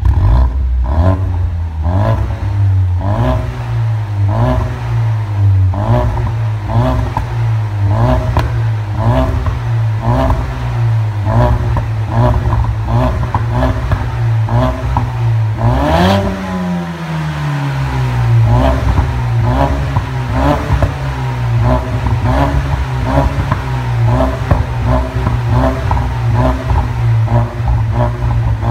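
Ford Mustang EcoBoost's 2.3-litre turbocharged four-cylinder, through an aftermarket exhaust, being blipped repeatedly at about one and a half revs a second. About halfway there is one sharp crack and the revs fall away slowly before the quick blips resume.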